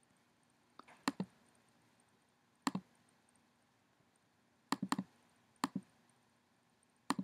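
Computer mouse clicking: several short, sharp clicks, mostly in quick pairs, spaced a second or two apart.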